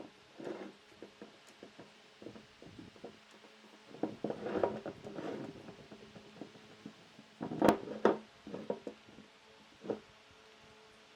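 Irregular knocks and clatter, as of wood and hand tools being picked up and set down, with a sharper knock about two-thirds of the way through.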